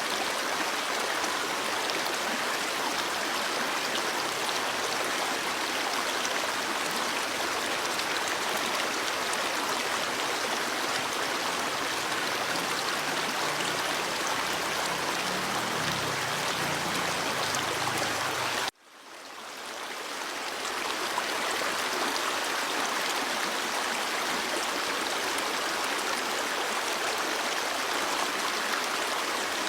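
Steady rush of water flowing in a stream. About two-thirds of the way through it cuts out suddenly and fades back in over a couple of seconds, an edit or loop point in the recording.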